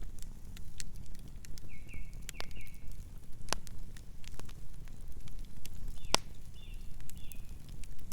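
Campfire burning with irregular crackles and sharp pops of wood over a steady low rumble, with the loudest pops about 3.5 and 6 seconds in. Two brief runs of short high chirps come through near 2 seconds and again around 6 to 7 seconds.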